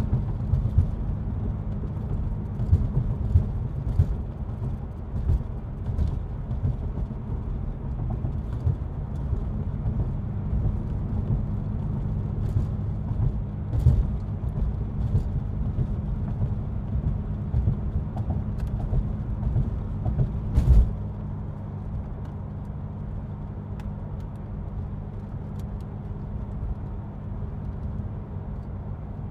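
Porsche 928's V8 engine running steadily at cruising speed, heard from inside the cabin, under a haze of tyre and road noise. A few sharp knocks come through, the loudest about two-thirds of the way in, and after it the sound gets a little quieter.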